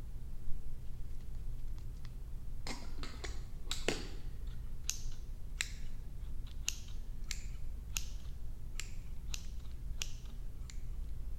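A series of sharp clicks: a quick cluster a few seconds in, then a steady run about one every two-thirds of a second, each with a brief hiss after it, over a steady low hum.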